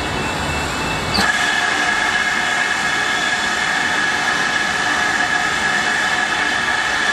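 Steam-hauled passenger train running on the line, with a steady high-pitched squeal that starts suddenly about a second in and holds on.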